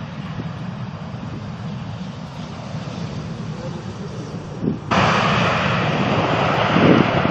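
Jet airliner engines rumbling low and steady. About five seconds in, the sound jumps suddenly to a much louder, fuller rushing noise.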